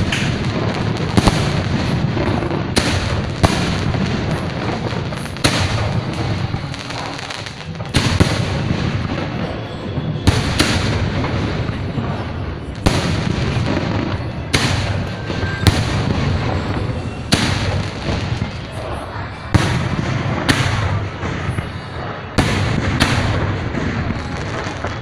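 Aerial fireworks display: shells bursting in sharp bangs at uneven intervals, roughly one every second or two, over a continuous rumble and crackle.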